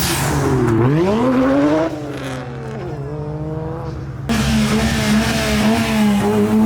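Mazda rotary engines of an RX-7 and RX-8 revving, the pitch dropping and climbing twice, then a loud, steady held rev from about four seconds in.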